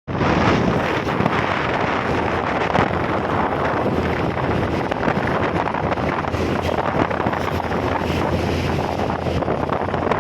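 Wind buffeting the microphone over the steady running noise of a moving vehicle, with a constant low hum underneath.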